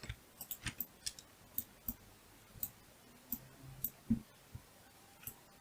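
Irregular clicks from a computer mouse and keyboard, a dozen or so in a few seconds, with a heavier thump about four seconds in.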